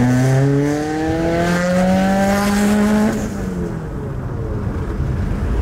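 Subaru WRX's turbocharged 2.0-litre flat-four, breathing through an aftermarket Tomei exhaust and catless downpipe, pulling hard under full throttle from inside the cabin: the engine note climbs steadily for about three seconds, then drops away as the throttle is lifted. This is a test pull to check that the newly fitted DW300c fuel pump delivers enough fuel under load.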